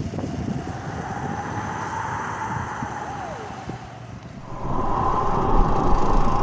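Road traffic: vehicles running, with a steady two-note tone that fades over the first seconds and comes back strongly about four and a half seconds in.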